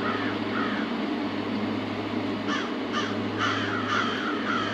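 Crows cawing: two calls near the start, then a quick run of about six more in the second half, over a steady low hum.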